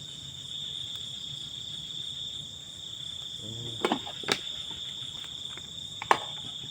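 Steady night chorus of crickets, a continuous high-pitched trill. A few sharp clicks come through it, twice around four seconds in and once about six seconds in, with a brief low sound just before the first.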